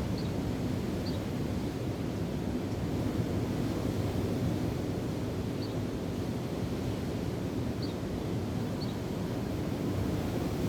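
Steady rush of wind and waves, with a few short, high bird chirps scattered through.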